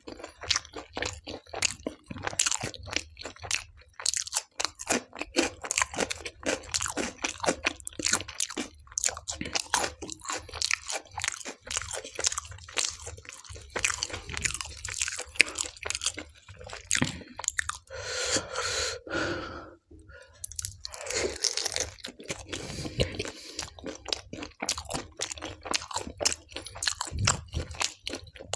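Close-miked chewing and crunching of raw red onion pieces and naan dipped in dal, a dense run of crisp crunches. Past the middle it breaks for two longer, drawn-out sounds.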